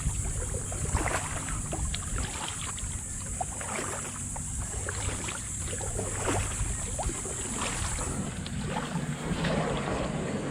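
Kayak paddle strokes splashing and dripping water, with wind on the microphone and a steady high hiss that stops about eight seconds in.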